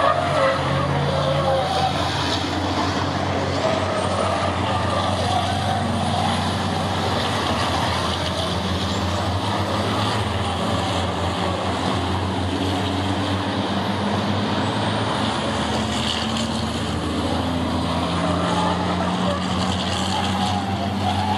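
Diesel engines of racing trucks running on the circuit, a steady heavy drone whose pitch rises and falls as the trucks accelerate and lift.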